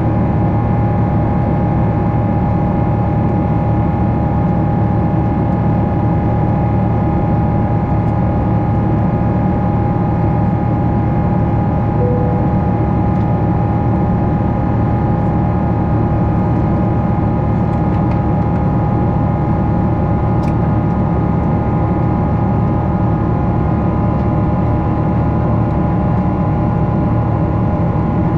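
Boeing 777-300 cabin noise heard from a window seat in flight: a steady hum of the jet engines and the airflow past the fuselage, with a constant whine tone held through it. A brief short tone sounds about twelve seconds in, and a faint click comes later.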